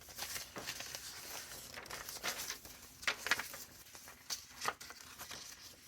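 Paper rustling and crinkling in uneven strokes as the paper pages and inserts of a handmade junk journal are handled.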